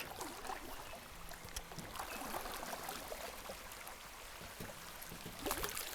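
Creek water trickling and gurgling around a canoe, with scattered light ticks and taps.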